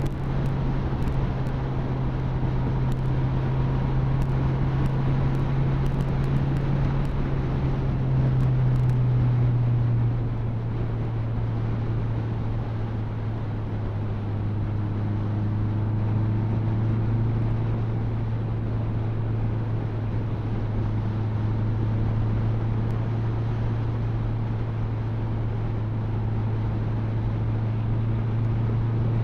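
Motorcycle engine running at a steady cruise, with wind and road noise; the engine note drops a little about ten seconds in and then holds steady.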